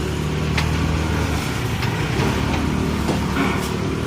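A motor vehicle's engine running close by, a low hum that fades about a second and a half in, over street noise with a few light clicks.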